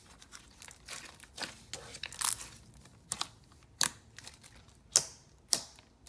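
Glossy, clicky slime being stretched and squished by hand, with irregular sharp clicks and pops as air pockets burst.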